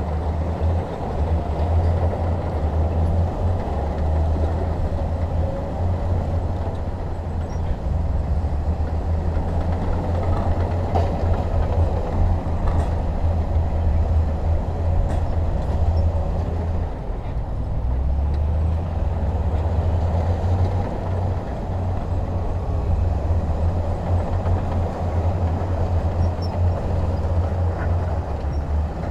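Heavy diesel machinery running: a steady low engine rumble that dips briefly a few times, with a few faint knocks over it.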